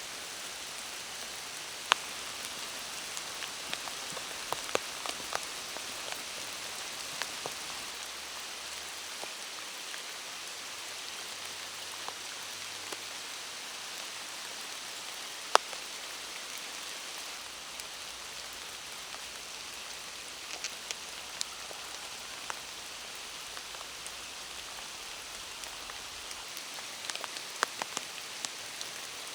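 Steady rain falling in forest, a constant hiss with scattered sharp ticks of single drops landing close by. The loudest ticks come about 2 seconds in, near the middle, and in a cluster near the end.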